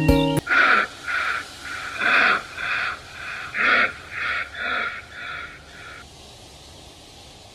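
An animal's rhythmic wheezing, huffing breaths, about nine of them at roughly two a second, stopping about six seconds in.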